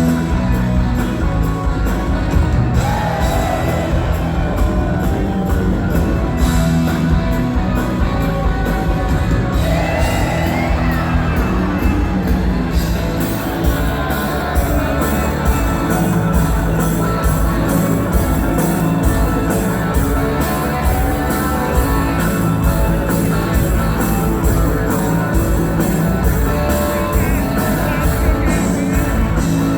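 Rock band playing live, with a voice singing at times.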